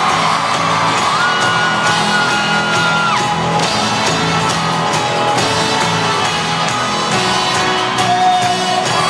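A folk-rock band playing live in a big arena, an instrumental stretch with a steady beat and no lead vocal. Audience members whoop and shout over it.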